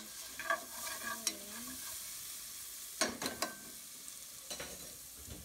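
Onions, garlic and carrots sizzling in hot chicken fat in a metal pot while a spoon stirs them, knocking and scraping against the pot several times.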